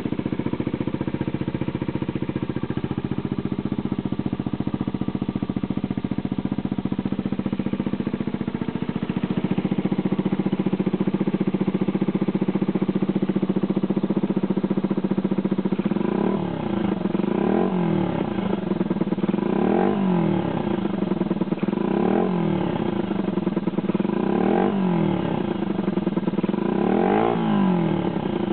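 Small motorcycle engine running through a replica Honda CR110-style muffler. It idles steadily, then in the second half it is revved in short blips about every two seconds, six times, the pitch rising and falling with each.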